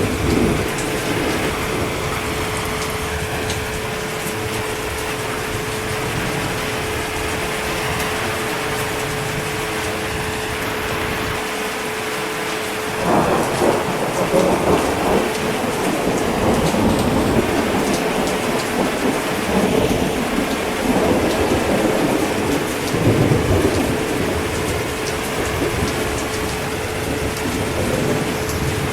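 Steady heavy rain. About halfway through, a long rolling rumble of thunder builds and runs for roughly ten seconds before fading back under the rain.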